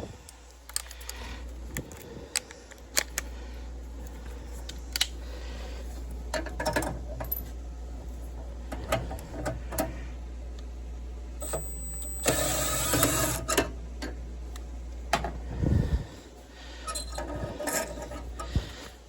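Scattered clicks and knocks of tools and metal furnace parts being handled, over a steady low hum, with a brief rushing noise about twelve seconds in.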